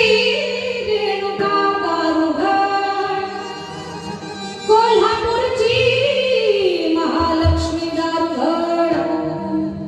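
A woman singing a Marathi bharud devotional song in long held notes with ornamented glides, over a steady low drone. The voice grows louder about halfway through.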